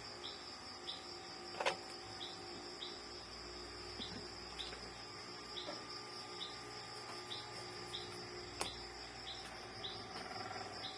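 Faint background chirping: a steady high-pitched drone with a short, high chirp repeating about every two-thirds of a second. Two sharp clicks of handling, about 2 s in and near 9 s.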